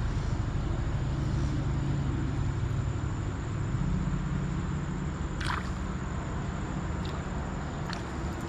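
Steady rush of flowing creek water, with a brief swish about five and a half seconds in and a few light clicks near the end.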